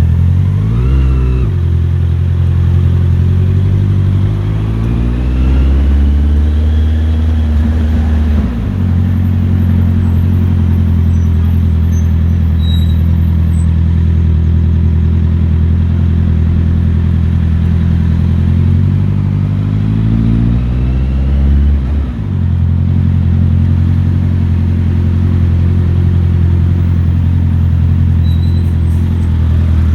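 Motorcycle engine running under way. The revs climb and then drop sharply three times, about a second in, at about eight and a half seconds, and at about twenty-two seconds, as gears are changed. The engine holds a steady note in between.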